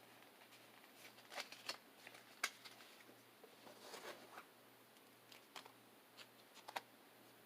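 Pokémon trading cards and a booster-pack wrapper being handled: faint, irregular rustles and clicks, a few at a time.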